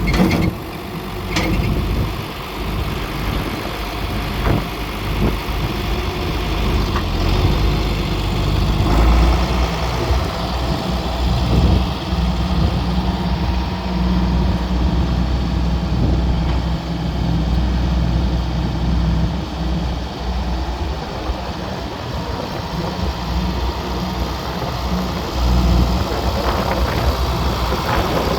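John Deere 4430 tractor's six-cylinder turbo diesel engine idling steadily.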